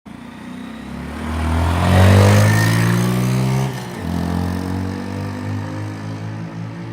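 Honda Monkey 125's single-cylinder four-stroke engine through its stock exhaust, revved up over a couple of seconds and then dropping sharply back to a lower, pulsing idle about four seconds in.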